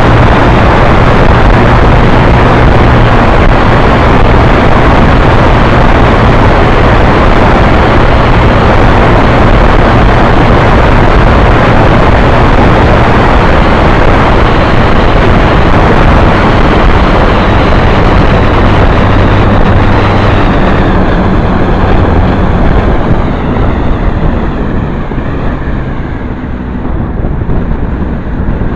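Motorbike riding with heavy wind noise on the microphone over the steady drone of the engine. In the last several seconds the wind rush eases and the engine's note comes through more clearly.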